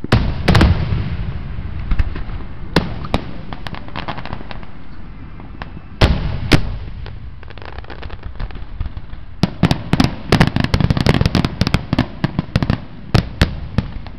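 Aerial firework shells bursting: loud bangs right at the start and again about six seconds in, scattered single bangs between, then a rapid run of many bangs and crackles from about nine and a half seconds on.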